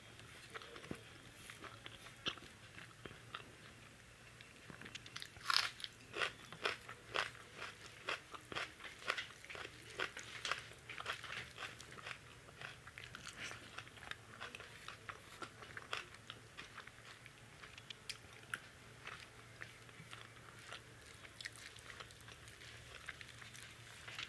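A person chewing a mouthful of hand-eaten rice with lentils and vegetables, close to the microphone. A run of moist clicks and crunches of the mouth starts a few seconds in, is busiest for about ten seconds, then thins out.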